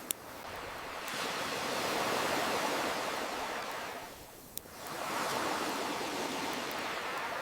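Ocean waves washing in and drawing back, two swells of surf hiss, with a sharp campfire crackle pop just after the start and another in a lull about halfway through.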